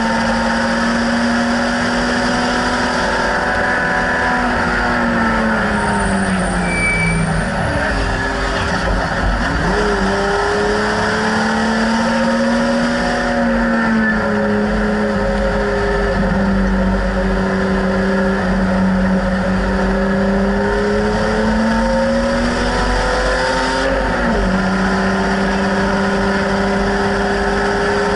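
BMW E30 race car's engine heard from inside its stripped cabin while lapping at racing speed. The revs climb and fall repeatedly, dropping a few times (sharply a little under halfway and again near the end) and then climbing again.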